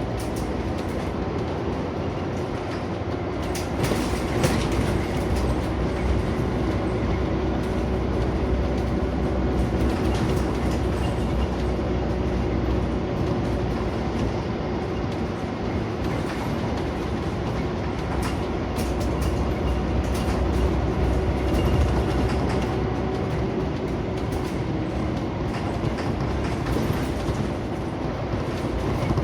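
Cabin sound inside a Scania CN94UB Omnicity single-deck bus on the move: a steady low engine and drivetrain hum under road noise, with occasional rattles and clicks from the bodywork.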